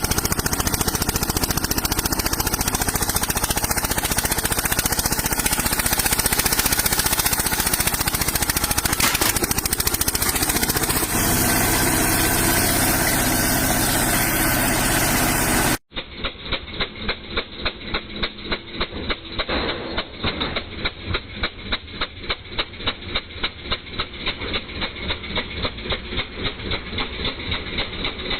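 Eicher tractor's diesel engine running loud and rough for the first half. After a sudden cut about halfway through, a diesel engine idles with a slow, even thumping of about three beats a second.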